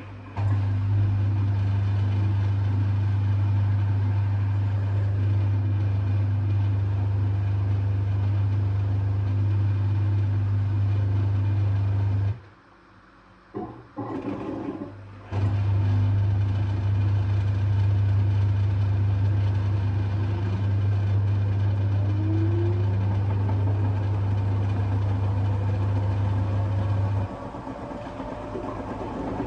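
LG F1222TD washing machine drain pump running with a steady low hum. It cuts out for a few seconds midway, gives a short blip, and starts again. In the second half a faint rising whine sounds, and near the end the hum drops away.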